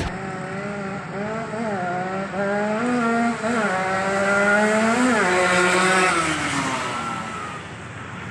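Yamaha RX-King's two-stroke single-cylinder engine with an underbelly expansion-chamber exhaust, running at high revs with several short throttle blips. Near the end the pitch slides down and the sound fades.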